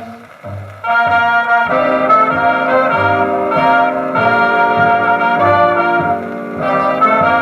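A 1940s jazz dance band playing an instrumental passage: brass chords held over a pulsing bass line, swelling in after a brief quiet dip about a second in.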